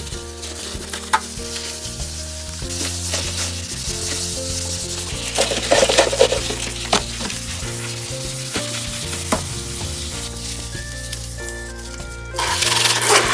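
Food sizzling as it fries in a pan, with occasional clicks of a utensil stirring against the pan. The sizzle grows suddenly louder about a second before the end.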